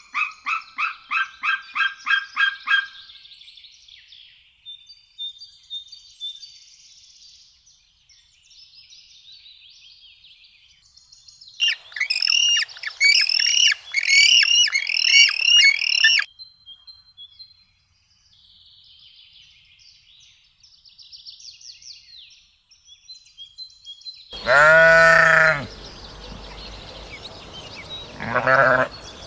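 Small birds chirping and singing: a fast run of repeated notes at the start, scattered soft chirps, and a louder burst of quick, repeated down-slurred notes in the middle. Near the end, a farm animal lets out a loud bleat, followed by a shorter one.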